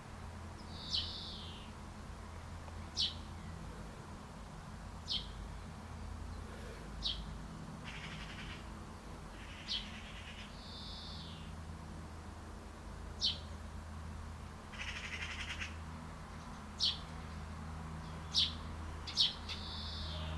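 Birds chirping: single short, high chirps every couple of seconds, with a few longer raspy calls about eight and fifteen seconds in, over a steady low hum.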